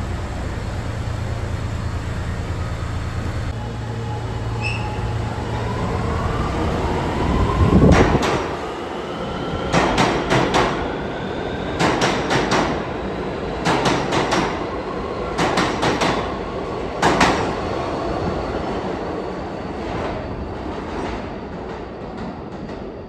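R211T subway train running, a low rumble at first, then a loud burst about eight seconds in. After that, groups of wheel clacks come about every two seconds, and an electric motor whine climbs steadily in pitch as the train speeds up. The sound fades away near the end.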